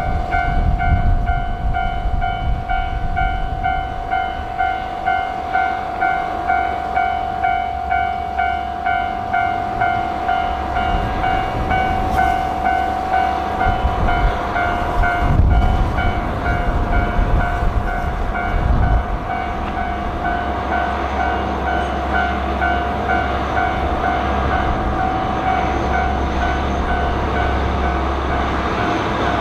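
A diesel train running past with a steady low rumble that swells a few times. Over it a pulsing tone sounds about one and a half times a second, loud at first and fading out in the second half.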